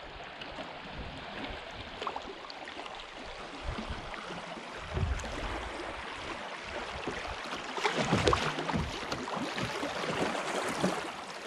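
Rushing river water around a kayak, growing louder toward a stretch of small rapids, with scattered low thumps and splashes.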